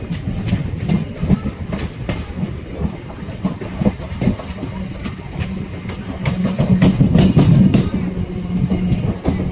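Train running along the track, its wheels clicking over the rail joints over a steady low hum, which swells briefly about two thirds of the way through.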